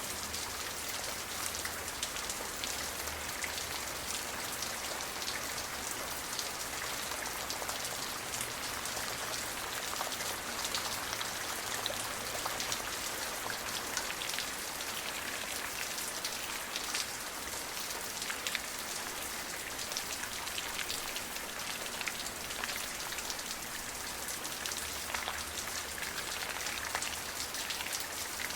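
Steady rain falling on a surface, an even hiss dense with the ticks of individual drops striking.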